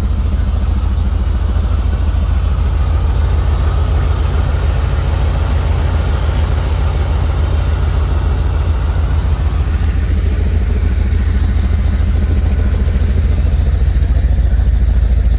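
1979 Corvette's 350 small-block V8, warmed up and holding a steady idle.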